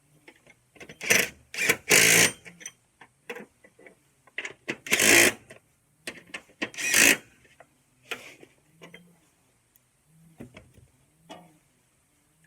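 Metal clanking and clattering from hand work on a mower deck. A few loud, short bursts come about 1, 2, 5 and 7 seconds in, with lighter clicks and knocks between them.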